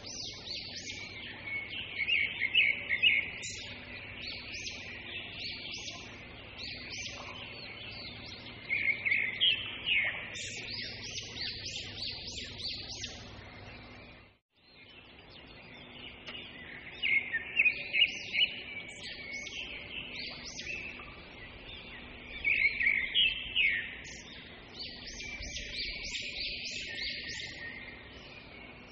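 Small birds chirping in bright bursts of quick, high notes every few seconds, over a faint steady low hum. The sound breaks off briefly about halfway.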